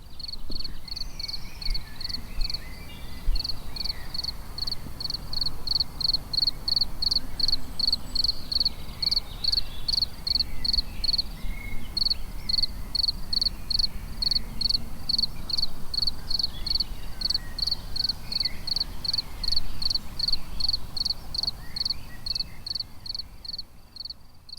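Cricket chirping in a steady rhythm, about two short, high chirps a second, with one brief pause about halfway through.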